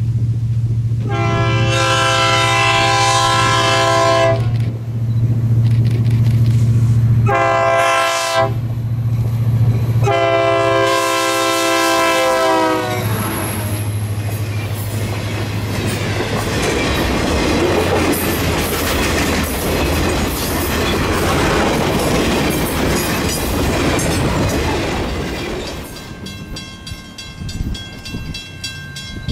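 Diesel freight locomotive approaching with its engine droning, sounding its horn in three blasts, long, short, long; the last blast drops in pitch as the locomotive passes. Then a long string of sugarcane cars rolls by with a steady rumble and clatter of wheels on the rails, until it cuts off suddenly near the end.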